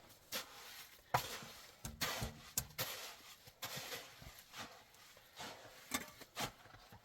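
A series of irregular knocks and clicks with short scraping sounds between them, coming at uneven intervals.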